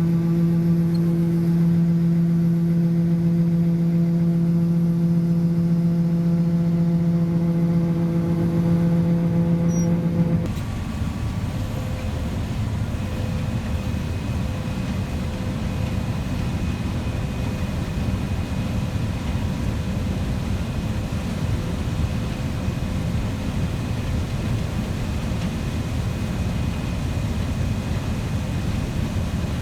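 Farm machinery running steadily: a constant-pitch engine or motor hum for about ten seconds, which cuts off suddenly into a broader, even machine noise with a faint high steady whine.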